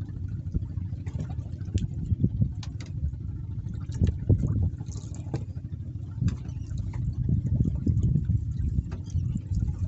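Water sloshing and lapping against a small boat's hull in choppy sea, with an uneven low rumble that surges and fades and a few faint knocks.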